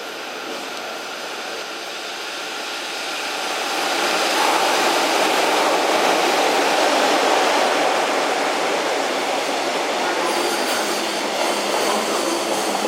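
Freight train passing close by: an EF66 electric locomotive hauling Koki container wagons, its rolling noise building over the first four seconds and then staying loud and steady.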